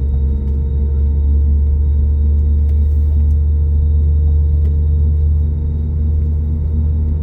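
Airbus A320 jet engines heard from inside the passenger cabin: a loud, steady low rumble with a few steady whining tones above it.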